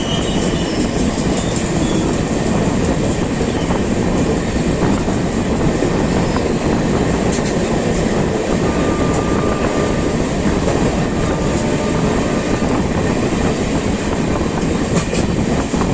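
Kashi Express passenger train running on the rails: a loud, steady rumble and rattle of the moving coaches, with a few clicks of the wheels over rail joints.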